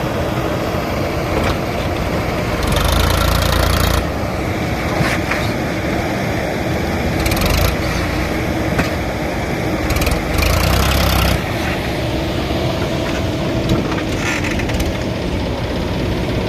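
JCB 3DX backhoe loader's diesel engine running steadily, with three louder surges of a second or so, as when the engine takes hydraulic load.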